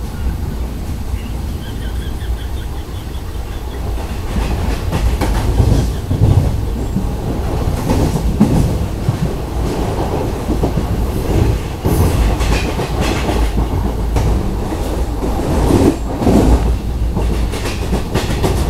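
Express passenger train coach running at speed, with a steady rumble and wheels clattering over rail joints, heard from the open coach doorway. The clatter comes in louder bunches several times.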